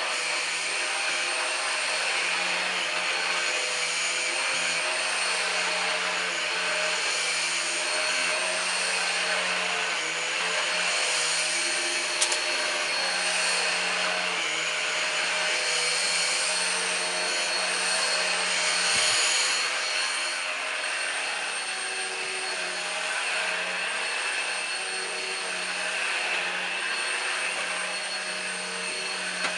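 Numatic Henry Quick cordless stick vacuum running steadily: a constant motor whine over airflow hiss, with a single sharp click about twelve seconds in.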